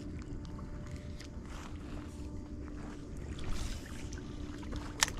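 Steady low outdoor rumble with a faint steady hum running through it, and a single sharp click near the end.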